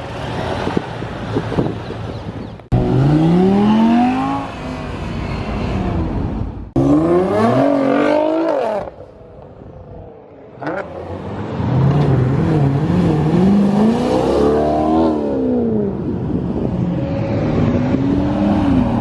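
Sports and supercar engines revving and accelerating past one after another, each engine note rising and falling in pitch. The sound breaks off suddenly between passes, with a quieter gap near the middle.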